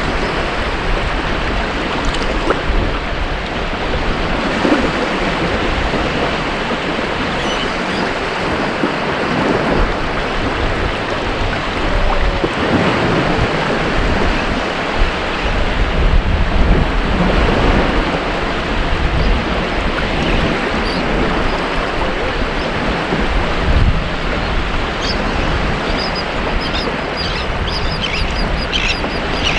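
Ocean surf on a beach: waves breaking and washing in, a continuous rushing that swells and eases, with a few faint high chirps near the end.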